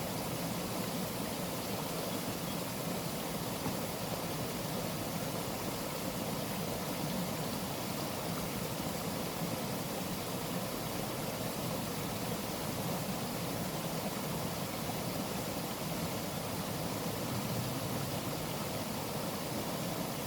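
Rushing water of a waterfall, a steady even noise.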